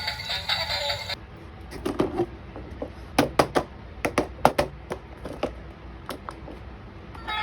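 Background music cuts off about a second in. It is followed by irregular sharp clicks and knocks of small plastic toys, several in quick succession around the middle.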